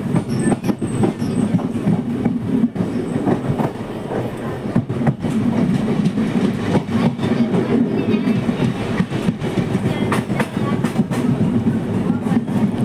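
Passenger train carriage running along the track, heard at its open doorway: a steady low rumble with frequent irregular clatter and clicks from the wheels on the rails.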